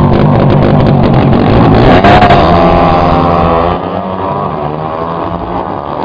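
Drag-racing motorcycle engine at full throttle, its pitch rising and shifting. It stays loud until just under four seconds in, then drops in level as the bike runs on.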